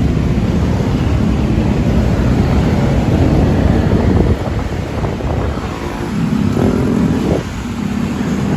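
Night city road traffic: cars and motorbikes passing in a steady engine-and-tyre rumble, with engines revving up in rising sweeps about five and seven seconds in.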